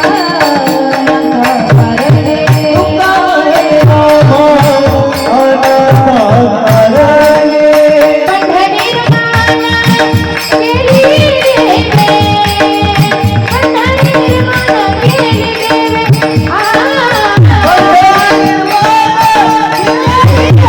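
Marathi devotional song sung by female voices, with tabla strokes keeping a steady beat under a held drone.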